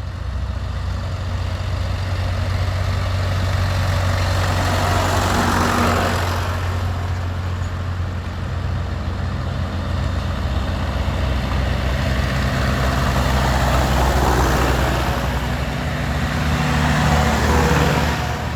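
Tractor engines running with a steady low throb, swelling louder twice as tractors drive past, about five seconds in and again from about fourteen to eighteen seconds.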